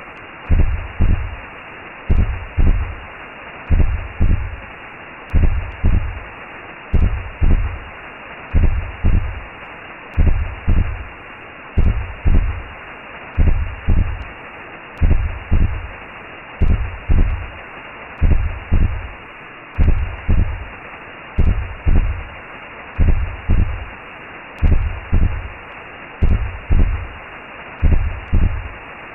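Recreated womb sound for lulling a baby to sleep: a slow, steady heartbeat of double thumps, one pair about every second and a half or so, over a constant whooshing hiss.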